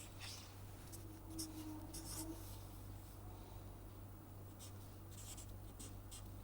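Faint scratching of a pen drawing on paper in short, irregular strokes, over a steady low electrical hum.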